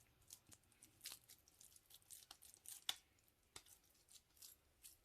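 Faint wet squishing and crackling of oiled hands pressing and shaping a grated potato and egg mixture into hash brown patties, with one sharper click about three seconds in.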